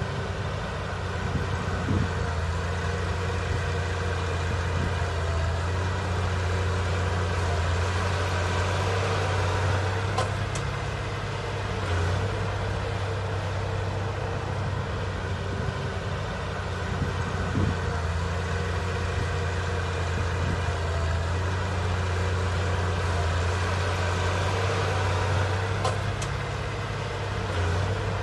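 Heavy diesel engine of earthmoving machinery running steadily under a deep, even hum, with small swells in loudness and a few faint clicks.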